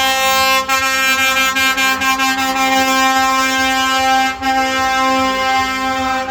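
Truck air horns blown in a long, steady blast of several notes at once, broken only briefly about four seconds in.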